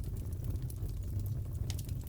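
Crackling fireplace: a steady low rumble of burning logs with scattered small sharp pops and crackles, a few close together near the end.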